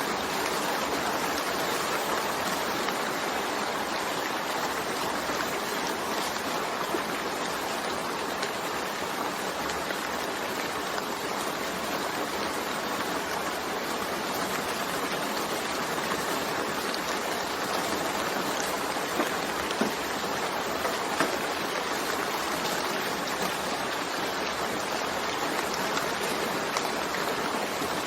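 Steady rain falling in an even hiss, with a few louder drop ticks about two-thirds of the way in.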